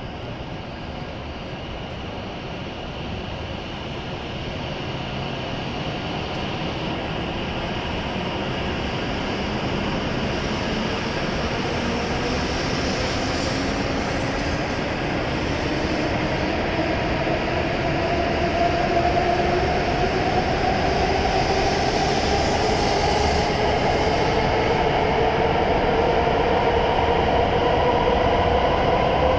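W7 series shinkansen pulling out of the station and gathering speed. Its motors whine in a tone that rises steadily in pitch, over a running noise that grows louder as the cars glide past.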